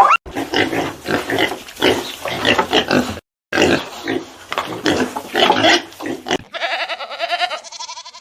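Pigs oinking in a run of rough calls, with a short break about three seconds in. About six and a half seconds in they stop and a goat starts bleating with a quavering tremble.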